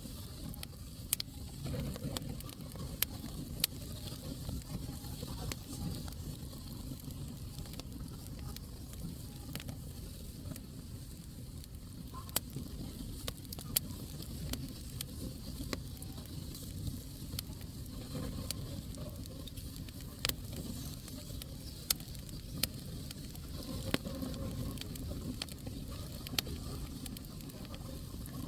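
Wood fire burning in a fireplace: a steady low rumble of the flames with sharp, irregular crackles and pops every second or two.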